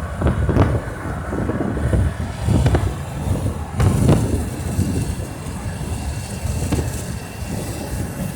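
Wind buffeting a phone's microphone in low, gusty rumbles, with a couple of sharp knocks.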